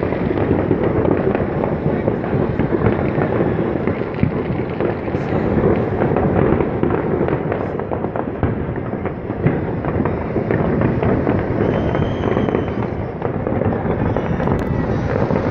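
New Year fireworks going off all at once: a dense, continuous crackle of many overlapping bangs and pops, with no pause.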